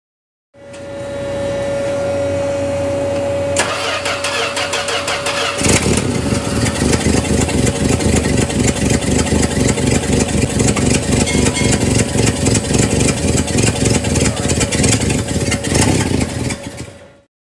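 1971 Dodge Dart Swinger's slant-six engine brought back to life after sitting for years, with starting fluid sprayed into the carburetor. A steady hiss comes first, then the engine cranks, catches about six seconds in and keeps running with a pulsing beat.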